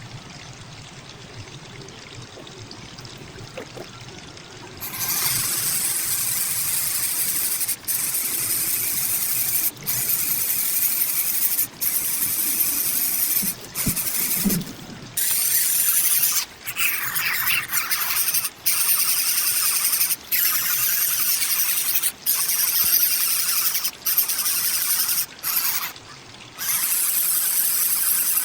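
Loud, harsh hissing that starts about five seconds in and carries on in long stretches broken by short gaps every second or two.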